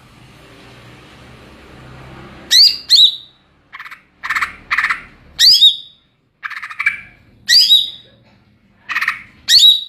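Green leafbird (cucak ijo) in full, open song (ngeplong). From about two and a half seconds in it gives loud, sharp whistled notes that swoop down in pitch, alternating with harsher buzzy chattering notes, in phrases about a second apart.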